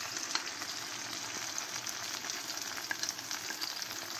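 Onions, ginger, garlic and chopped tomatoes sizzling steadily in hot olive oil in a pan, with small scattered crackles.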